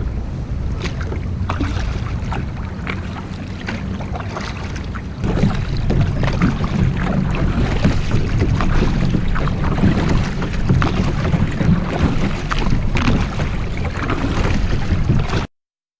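Wind buffeting the microphone with a heavy low rumble, over water splashing and dripping from kayak paddle strokes. It gets louder about five seconds in, and the sound cuts off abruptly just before the end.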